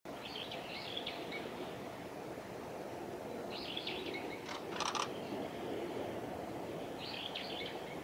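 Wild birds calling: three short runs of high chirps a few seconds apart, with two sharp, harsh notes near the middle, over a steady low background rush.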